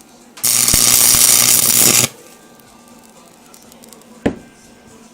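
Stick welder arc crackling and hissing for about a second and a half, then cutting off as the arc is broken. A single sharp knock follows near the end.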